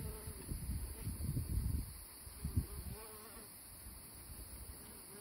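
Honey bees buzzing in flight around a wild colony's nest in a tree hollow, a wavering buzz that comes and goes. Low rumbling thumps over the first two seconds, with one more a little later.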